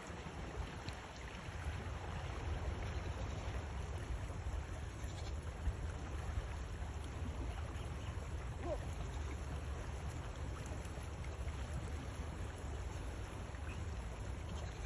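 River water flowing steadily, with a low rumble underneath.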